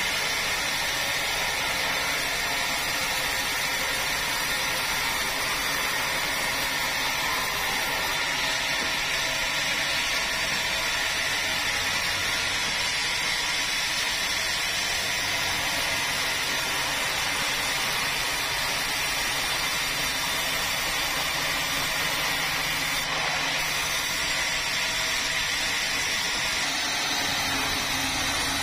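Motorised saw running steadily as it cuts through a red meranti log, an even, unchanging machine noise with no pauses.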